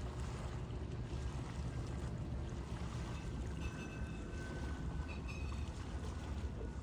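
Steady low rumble of wind buffeting the microphone, with water washing along the shore; a few faint, short high tones about halfway through.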